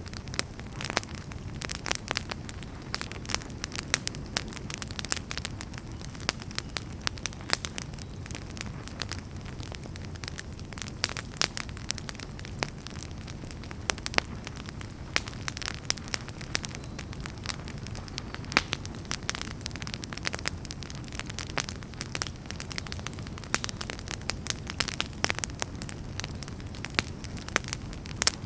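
Wood fire burning, with many sharp, irregular crackles and pops of firewood over a steady low rumble of the flames.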